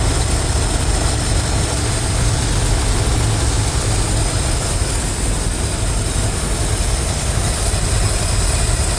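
Ford F350 dump truck's carbureted engine idling steadily, with a deep, even rumble. The idle is set a little high to keep it from bogging down, and the carburetor still needs adjusting.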